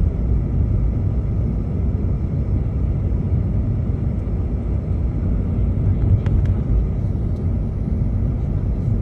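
Steady low rumble of a car driving, heard from inside the cabin, its tyres on a snow-covered road that has not been plowed.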